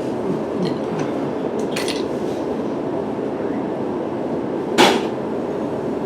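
Steady low vehicle rumble, with a few light clicks and one sharp knock a little under five seconds in.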